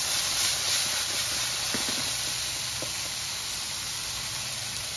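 Opo squash pieces sizzling as they stir-fry in oil in a wok-style pan over an outdoor propane burner, a steady hiss. The pan is tossed at the start, with a few light clicks about two seconds in; the pieces are browning.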